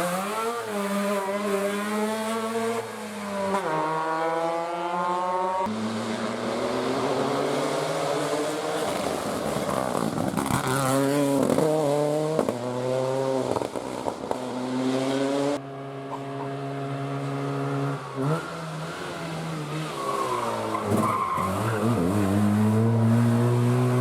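Rally car engine revving hard, pitch climbing and dropping repeatedly through gear changes and throttle lifts as the car drives a special stage, with tyre noise under it.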